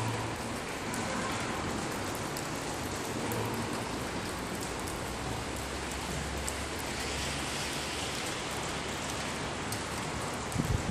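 Steady rain-like hiss with a faint low hum underneath.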